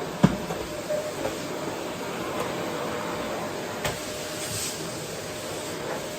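Vacuum cleaner running steadily over a wooden floor, with a sharp knock just after the start and a softer one about four seconds in.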